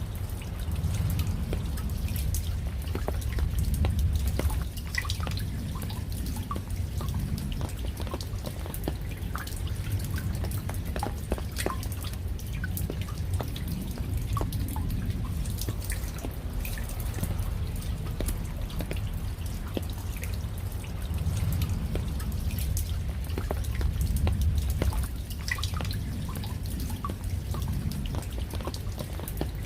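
Rain falling, with many separate drops plinking and dripping close by over a steady low rumble that swells slightly a couple of times.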